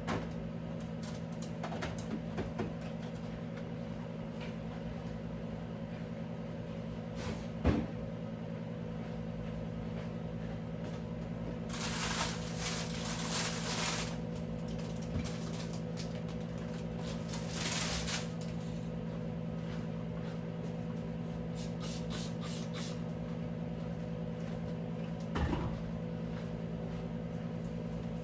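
Objects being handled and set down: scattered knocks and clicks, a sharp knock about a third of the way in and another near the end, and two stretches of hiss-like noise in the middle, all over a steady low hum.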